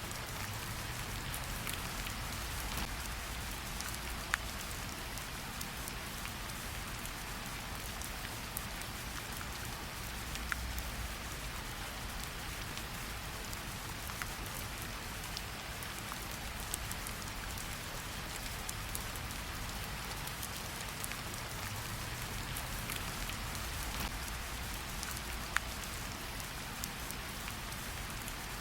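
Steady rainfall: an even hiss of rain with scattered sharp drip ticks, a few louder ones standing out, over a low rumble.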